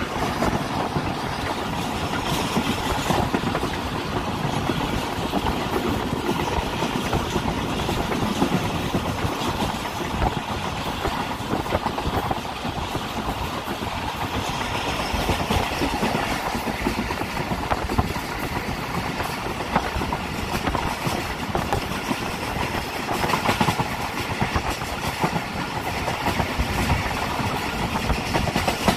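Passenger train running along the line, heard from aboard: a steady rumble of wheels on the rails, with many small clicks of the wheels over rail joints.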